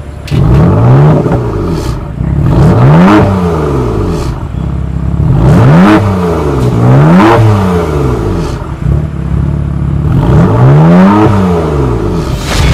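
2015 BMW M4's 3-litre twin-turbo inline six being revved about five times, each a quick rise and fall in pitch, two of them close together in the middle.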